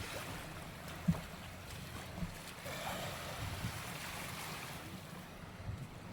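Beach ambience: surf washing on the shore, with wind buffeting the microphone and a few soft thumps, the sharpest about a second in.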